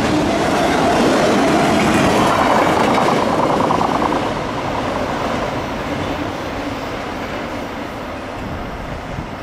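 Freight train of autorack cars rolling past, the steel wheels running on the rails. The sound is loud at first, then fades steadily from about four seconds in as the cars pull away.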